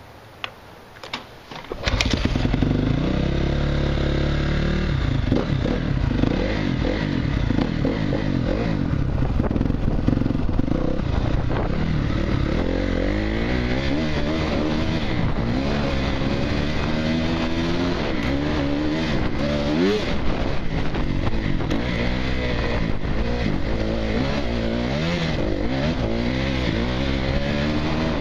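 Honda CRF250R dirt bike's single-cylinder four-stroke engine. It comes in abruptly about two seconds in after a few faint clicks, then runs with revs rising and falling again and again.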